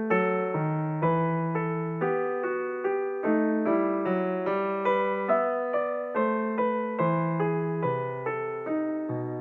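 Background piano music: a steady run of struck notes, each fading away before the next.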